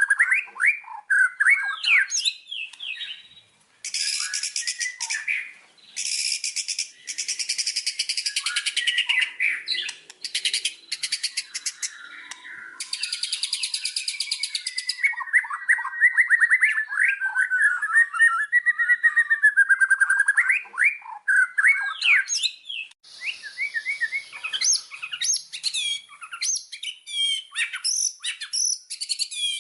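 White-rumped shama (murai batu) singing nonstop: varied, rich whistled phrases and glides, broken by long stretches of fast, harsh rattling trills, the longest between about 4 and 15 seconds in and another about two-thirds of the way through.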